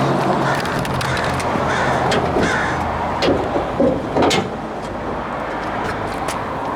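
Car engine idling steadily, with a few sharp knocks and clunks about three to four and a half seconds in.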